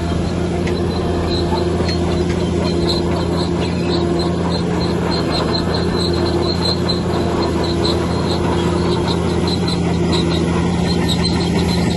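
Heavy diesel engine of a bulldozer running steadily, with a rapid, irregular series of short high-pitched squeaks over it.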